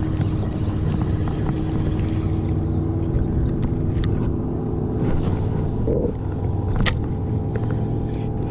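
A motorboat engine running steadily with a low, even hum.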